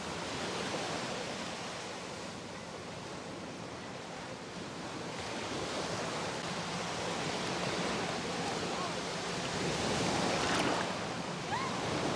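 Surf washing onto a sandy beach: a steady rushing wash that swells louder towards the end.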